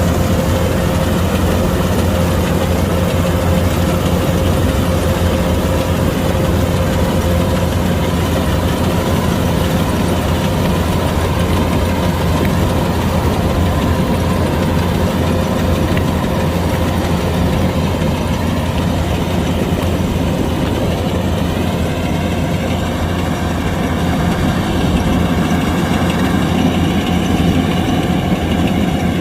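Kubota DC-105X rice combine harvester's diesel engine running steadily at working speed, with a higher whine that glides up in pitch about two-thirds of the way through.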